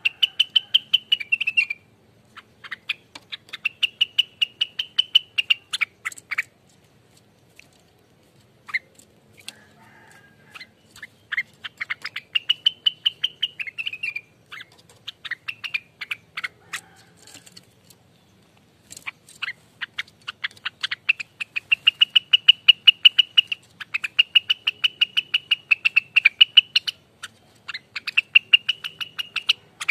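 Rengganis songbird singing its fast 'ropelan' chatter: rapid trains of sharp, high notes run into trills of one to three seconds, repeated with short gaps and a brief lull about a third of the way in.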